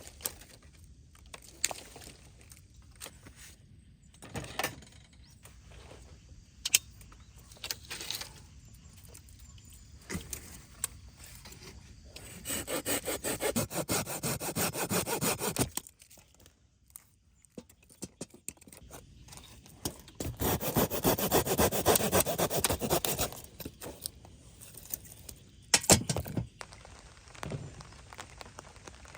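Silky GomBoy folding hand saw cutting through firewood in two spells of rapid strokes of about three seconds each, with scattered knocks and clicks of wood being handled in between.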